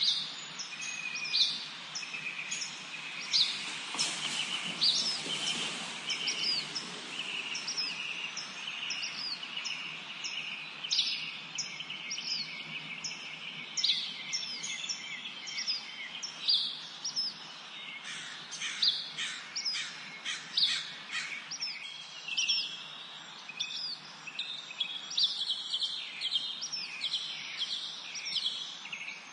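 Several songbirds singing and chirping together: rapid, repeated sharp high chirps with overlapping trills, over a faint steady background hiss.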